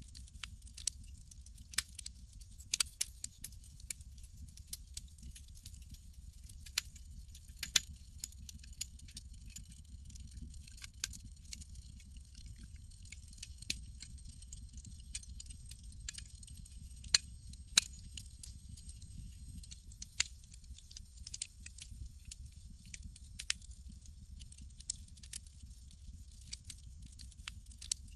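Campfire crackling: irregular sharp pops and snaps of burning wood over a steady low rumble of the fire.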